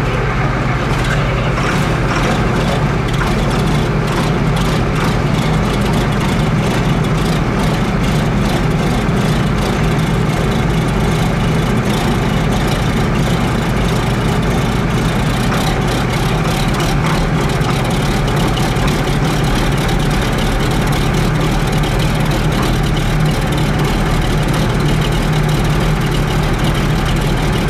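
Diesel engine of a 1993 Volvo cab-over truck running at a steady idle just after a cold start, loud and even throughout.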